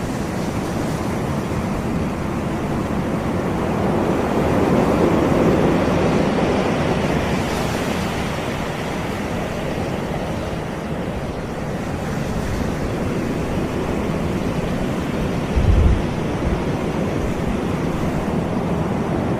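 Caribbean sea surf washing on a sandy beach, a steady rush of breaking waves that swells about a quarter of the way in and eases off again. Near the end there is a brief low thump, like a gust of wind hitting the microphone.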